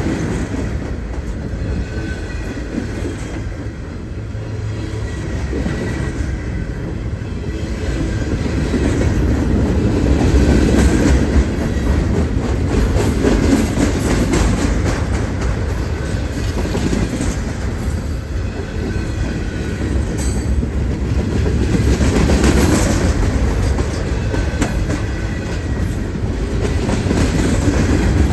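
Railroad train rolling past, its cars clacking over the rail joints in a continuous heavy rumble that swells and eases every few seconds.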